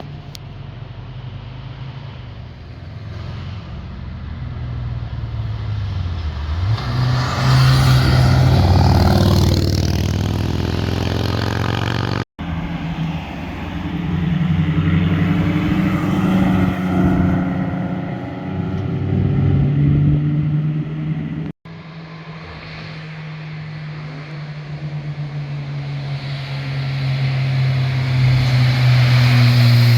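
Three successive car flybys: sports car engines and exhausts approaching, passing and pulling away under throttle, joined by two abrupt cuts. The loudest pass comes about eight seconds in, and near the end another car approaches with its engine note rising as it accelerates.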